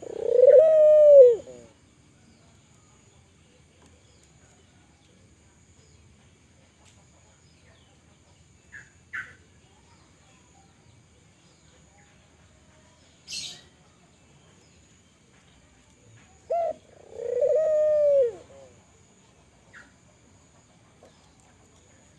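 Spotted dove (tekukur, Kelantan type) cooing twice, about sixteen seconds apart. Each phrase is a short note followed by a longer, arched coo. Faint short chirps and one sharp click fall between the two phrases.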